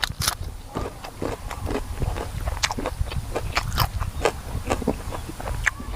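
Close-up eating: biting and chewing food, with a string of short, crisp crunches coming irregularly, a few a second.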